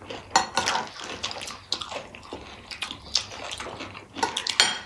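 Wet chewing and mouth smacking from eating gilo chatpate, a series of short, sharp wet clicks, with a brighter click near the end.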